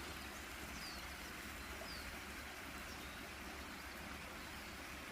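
Faint steady rush of flowing river water, with two short high bird chirps about one and two seconds in.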